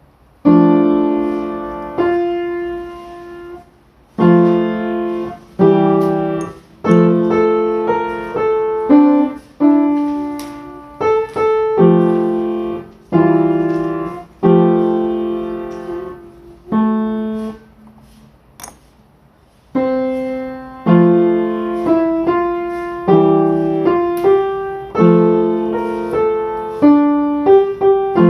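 Background music: a solo piano playing a slow piece of struck chords and melody notes, each left to ring and fade, with a longer pause about two-thirds of the way through.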